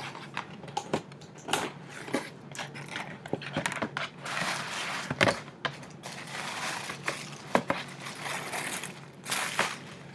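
Gift bag and its paper wrapping rustling and crinkling as items are pulled out, with scattered light clicks and knocks; the longest crinkling comes about four, six and nine seconds in.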